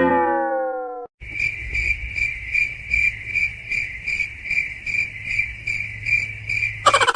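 A loud falling tone with a short fade, then crickets chirping: a steady high trill that pulses about two to three times a second, starting about a second in and cutting off abruptly near the end.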